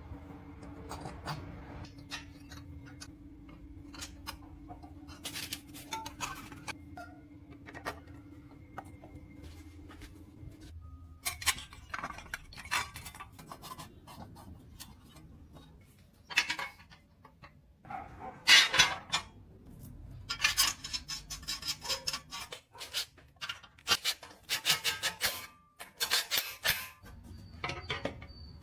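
Metal clinks and clanks of tools and parts being handled, scattered and irregular, getting busier after about ten seconds, over a steady low hum that stops about ten seconds in.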